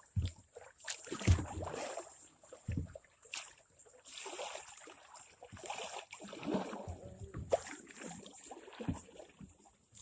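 Kayak being paddled on flat river water: splashing paddle strokes with scattered knocks and thumps against the boat.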